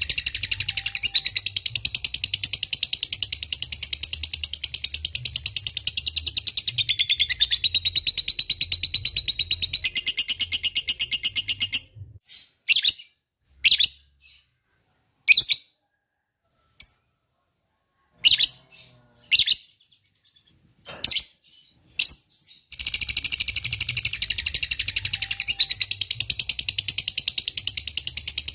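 Lovebird giving its long 'ngekek' chatter: a rapid, continuous high trill that breaks off about halfway into a few separate short chirps, then starts up again near the end.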